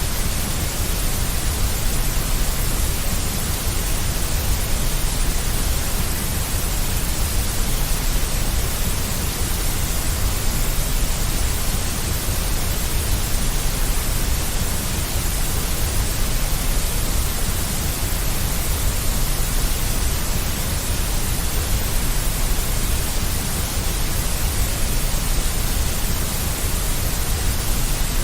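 Deep white noise for soothing a baby: a steady, unchanging hiss with a strong low rumble beneath it.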